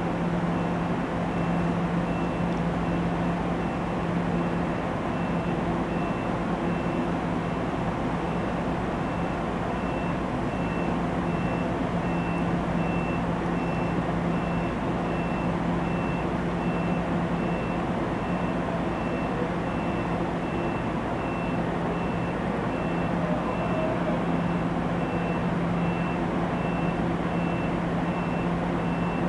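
NJ Transit bi-level commuter train standing at the platform, its onboard electrical and ventilation equipment giving a steady hum. A faint high-pitched beep repeats about twice a second over it.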